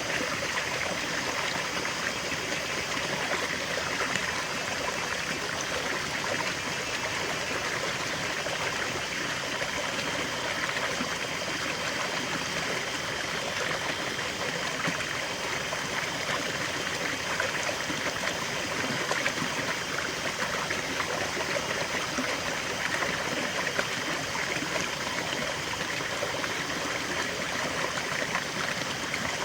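River water flowing and babbling steadily over stones, with a fine trickling, splashing texture.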